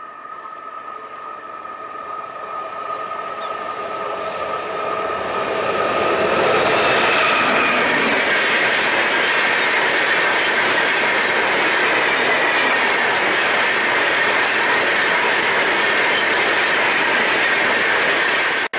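Passenger train of red-and-grey coaches passing at speed onto a rail bridge. Steady high tones grow louder over the first six seconds as it approaches, then loud rushing wheel-and-rail noise as the coaches run past, cutting off suddenly near the end.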